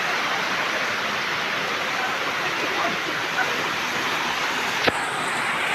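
Steady rain falling, an even hiss with no break, and a single sharp click near the end.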